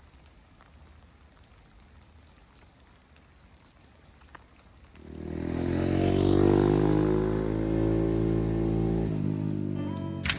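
A motor vehicle's engine comes in about five seconds in, swells to a peak and fades slowly with a slight drop in pitch, as it passes.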